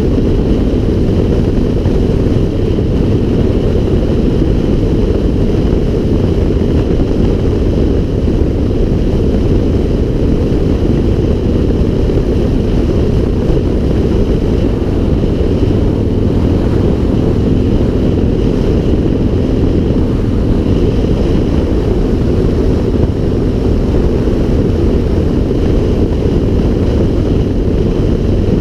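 Steady wind noise rushing over a GoPro's microphone during a bike ride, a loud low rumble with no let-up.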